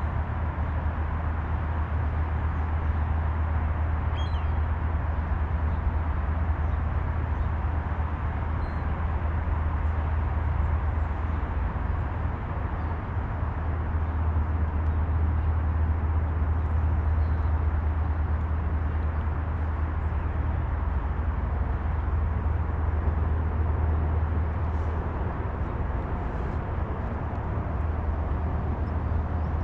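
Steady low outdoor rumble with an even hiss above it, and a few faint high chirps now and then.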